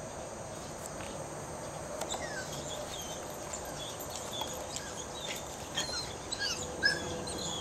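Small wild birds chirping in short scattered calls that grow busier in the second half, over a steady high insect drone.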